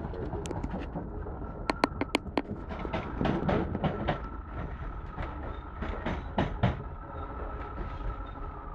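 Interior of an electric passenger train running along the line: steady rumble with a held whine that stops near the end, broken by quick runs of sharp clicks and knocks as the wheels pass over rail joints.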